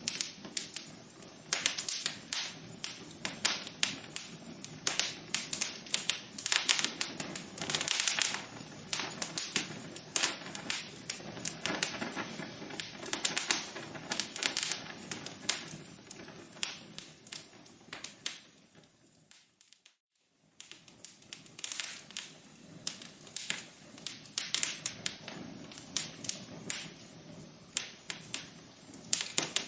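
Wood fire crackling in a fireplace: a dense, irregular run of sharp pops and snaps over a low hiss. About two-thirds of the way through it fades to silence for about a second, then the crackling resumes.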